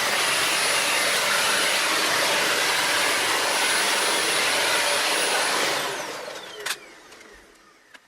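A high-speed electric fan motor rushing air loudly and steadily, then switched off about six seconds in and winding down with a falling whine, with a click shortly after.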